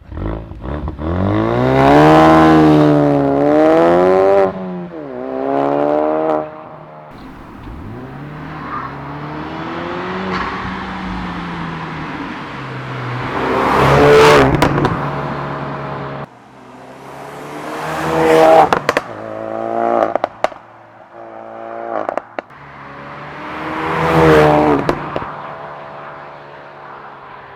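Turbocharged 2.3-litre EcoBoost inline-four of a remapped 2017 Ford Focus RS MK3 being revved hard through the gears. The engine note climbs steeply and then cuts off abruptly, several times in a row.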